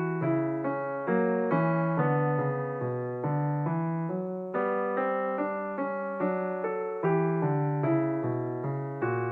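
Solo piano music: notes struck about two to three times a second, each dying away, a melody over lower bass notes.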